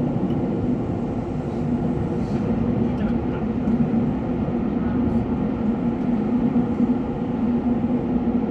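Subway train running between stations through a tunnel: a steady rumble of wheels on rail with a steady hum from the running gear and motors, heard from inside the train.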